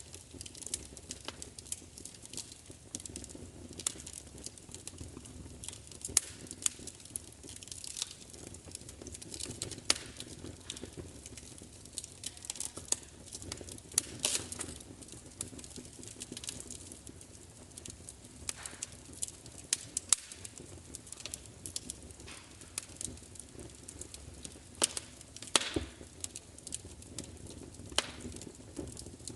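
Wood fire crackling: irregular sharp pops and snaps, a few much louder than the rest, over a steady low rumble of burning.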